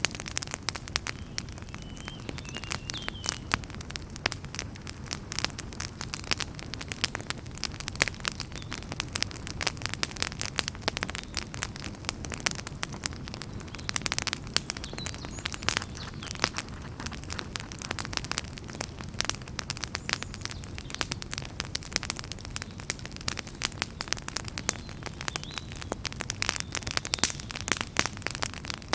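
Wood campfire burning, with many irregular sharp pops and crackles from the firewood over a low steady rumble of the flames.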